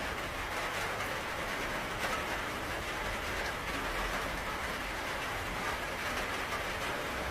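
Steady rain falling: an even hiss with scattered drop ticks, over a low rumble.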